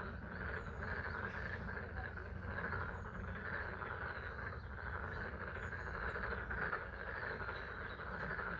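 Chorus of many frogs calling together at a pond, a dense unbroken trilling, over a steady hiss of spring rain.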